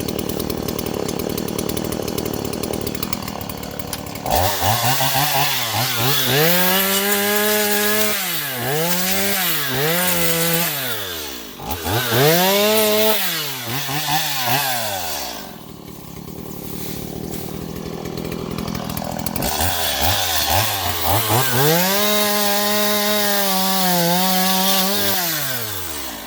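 Stihl MS170 two-stroke chainsaw cutting bamboo. It runs steadily for a few seconds, then is revved up to full speed and back down again and again, the engine pitch rising and falling with each squeeze of the throttle. It drops back to a lower run for a few seconds in the middle before a long stretch held at high revs near the end.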